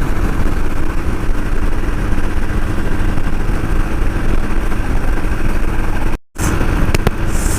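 Motorcycle riding at steady highway speed: the engine runs evenly under a heavy, steady rush of wind and road noise. The sound cuts out for an instant about six seconds in.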